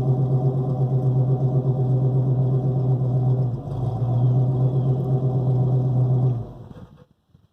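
1965 Pontiac Catalina's 389 V8 running at a steady idle through headers, an X-pipe and chambered mufflers. Its level dips briefly halfway through, and the sound ends about six and a half seconds in.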